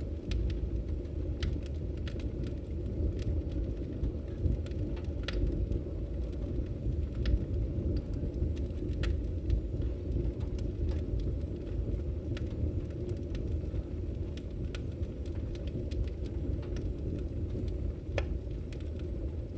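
Wood fire burning in a fireplace: a steady low rumble of the flames with scattered sharp crackles and pops, a louder pop about five seconds in and another near the end.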